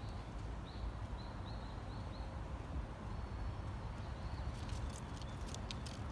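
Small birds calling with short high chirps, several in quick succession and then a longer held note, over a low steady background rumble. A quick run of sharp clicks comes in the last second and a half.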